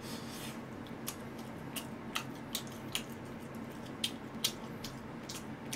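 A man chewing braised pig's trotters (jokbal) with his mouth open: faint, irregular wet clicks and smacks, about a dozen over several seconds.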